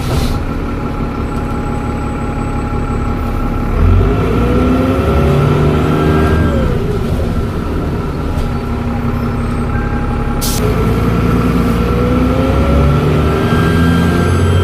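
Dennis Trident double-decker bus engine with Voith automatic gearbox, its pitch rising and falling twice as the bus pulls through the gears, under a steady high turbo whistle. A brief sharp hiss comes about ten seconds in.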